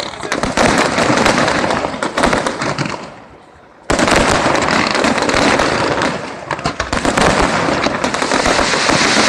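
Aerial fireworks going off in a dense, crackling barrage of many small pops. It dies down briefly about three seconds in, then comes back suddenly and stays loud.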